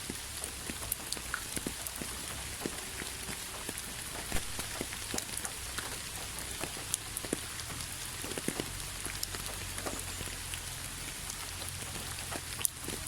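Steady rain falling, a continuous hiss with many separate drops heard as scattered taps.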